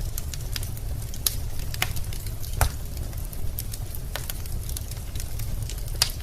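Wood fire crackling in a fireplace: irregular sharp pops and snaps over a steady low rumble, with a louder pop about two and a half seconds in and another near the end.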